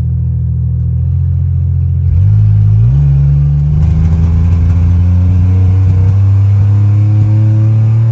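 Chevy 4.3 V6 pickup engine accelerating hard on a 150-shot of nitrous. The engine note grows louder about two seconds in and steps up a second later, then climbs steadily in pitch as it pulls. This is the engine hesitating briefly on the spray before clearing out and making more power.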